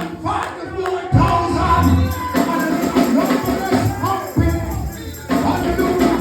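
Church music with a tambourine shaking, a bass line and voices singing.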